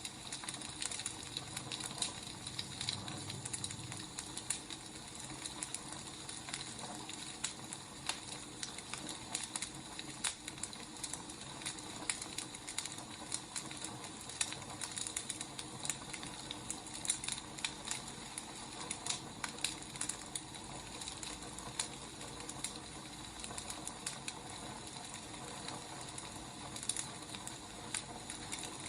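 Wood fire burning: irregular crackles and pops over a steady soft hiss.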